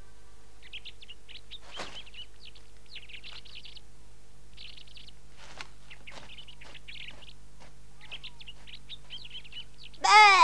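Small birds chirping and twittering in quick, scattered bursts over a faint steady hum. A loud voice cuts in with a falling pitch right at the end.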